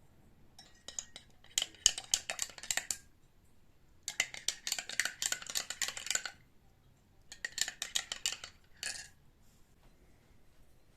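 Kitchenware clinking and rattling, as when cutlery or dishes are handled, in three busy bursts of a couple of seconds each with short pauses between.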